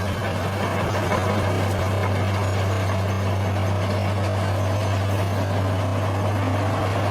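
Large bulldozer's diesel engine running steadily, a constant low hum with mechanical noise over it.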